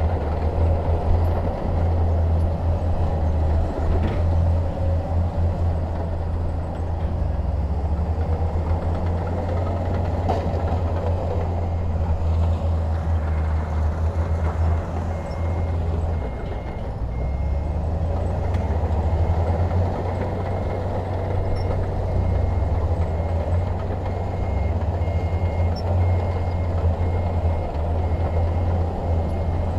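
Heavy diesel construction vehicle's engine running with a deep, steady rumble. From about halfway a reversing alarm starts beeping at an even rate, a sign that the machine is backing up.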